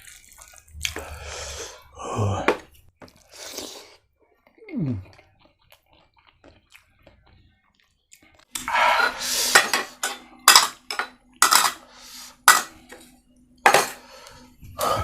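Metal utensils scraping and clinking against dishes and pots, with soft scrapes at first and then a quick series of sharp clinks in the second half.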